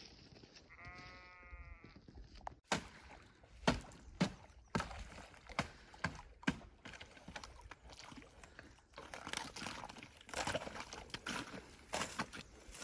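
A sheep bleats once, a wavering call of about a second near the start. It is followed by a string of sharp knocks and crunching, rustling sounds.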